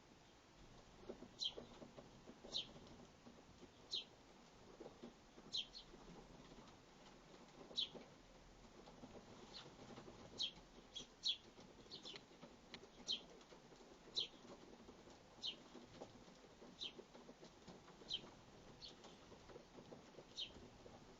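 Sparrows chirping at a seed feeder: short, sharp single cheeps, about one every second, with wings fluttering.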